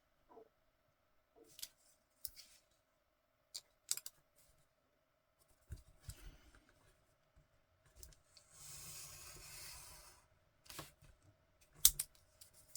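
Scissors snipping paper or card in scattered short cuts and clicks, with a longer rustle of paper being handled about nine seconds in.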